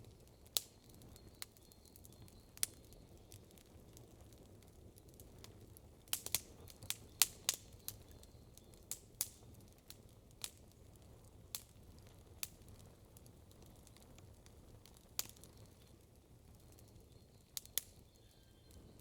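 Wood campfire crackling, with irregular sharp pops and snaps and a quick run of them about six to eight seconds in.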